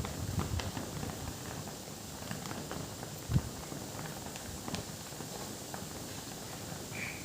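Scattered light taps and knocks, with one louder thump about three seconds in.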